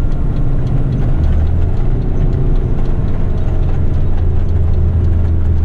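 Heavy rigid truck's diesel engine heard from inside the cab while driving, a loud steady low drone that strengthens and settles into an even hum about a second in.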